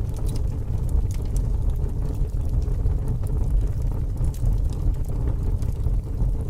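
Fire crackling: a steady low rumble of flames with frequent small, irregular pops and snaps.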